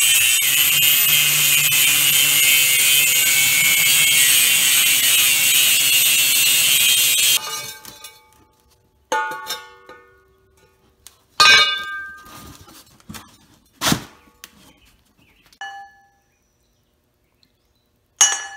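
A power tool running against metal for about seven seconds, then cutting off suddenly. After it, five or six separate strikes on the empty steel oxygen cylinder, each ringing like a bell as it fades.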